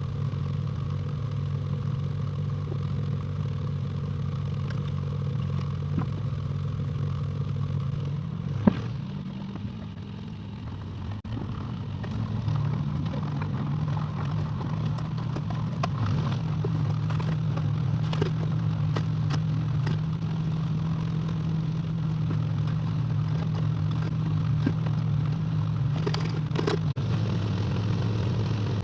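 Excavator's diesel engine running steadily, with a sharp knock about nine seconds in. The engine drops back briefly, then picks up again and runs harder from about twelve seconds, with a few clanks near the end.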